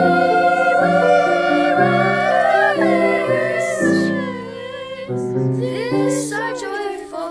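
A voice singing a slow, wavering melody over instrumental accompaniment whose low notes change about once a second.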